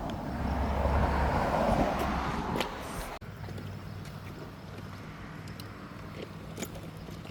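A car passing close by, its engine and tyre noise swelling and then fading over about three seconds before cutting off abruptly; after that a quieter steady low hum.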